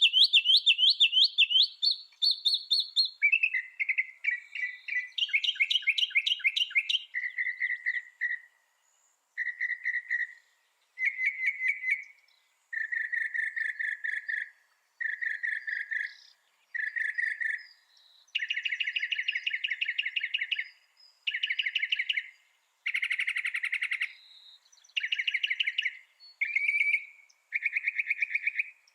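Mockingbird singing: a run of phrases, each a quick series of one repeated note, switching to a different note type every second or two with short pauses between phrases.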